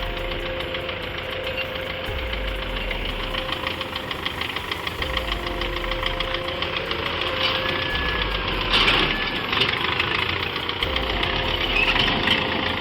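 Tractor diesel engines running under load with a steady, clattering knock, and a brief louder burst about nine seconds in.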